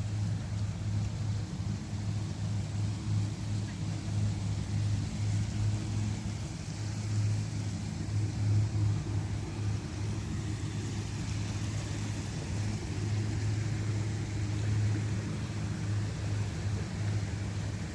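A steady low rumble and hum that flutters in level, with a faint hiss above it.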